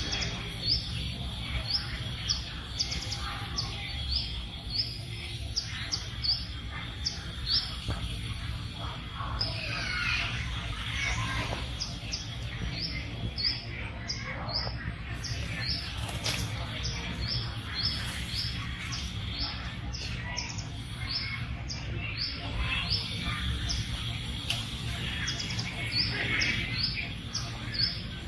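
A bird chirping over and over, about two short high chirps a second, over a steady low background rumble.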